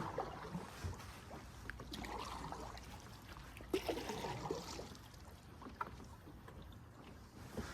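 Canoe paddle strokes in the water, soft and intermittent, with a sharp knock a little under four seconds in and a fainter one near six seconds.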